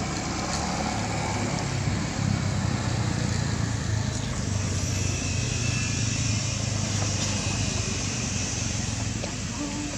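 A motor running steadily with a low hum, under outdoor background noise.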